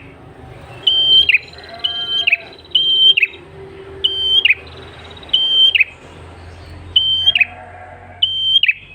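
Red-headed prenjak (a tailorbird) calling over and over, about once a second: each call a short held high note that drops sharply at the end. A fainter, longer thin whistle sounds in the background.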